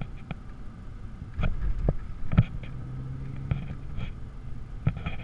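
Audi R8 engine running at low speed, heard from inside the cabin as a steady low hum, with a few sharp knocks and rattles scattered through it.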